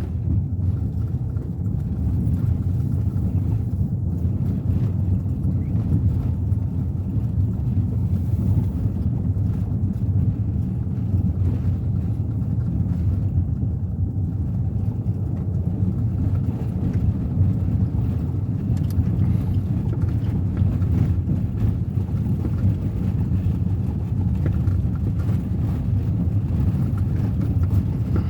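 Steady low road and engine rumble of a Suzuki Ertiga 1.4 cruising on a toll road, heard from inside the cabin.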